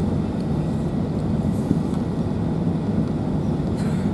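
Steady low rumble of an Airbus A380 airliner in flight, engine and airflow noise heard inside the cabin.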